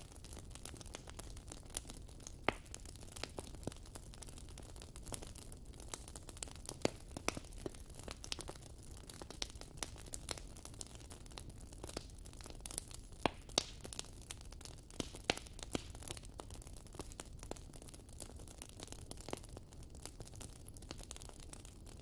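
Wood fire burning, with frequent irregular sharp crackles and pops over a low steady rumble.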